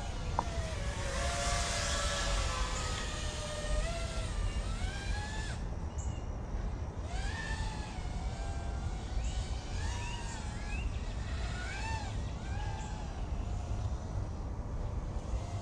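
iFlight Cidora SL5-E 5-inch FPV racing quadcopter flying, its motor whine gliding up and down in pitch in repeated arcs as the throttle changes and it passes by, over a steady low wind rumble on the microphone.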